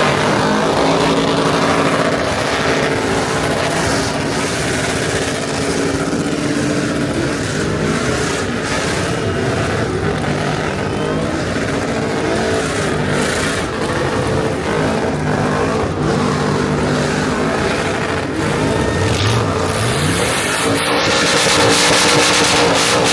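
Pickup truck engine running and revving, its pitch holding and shifting, with a short rising rev about nineteen seconds in.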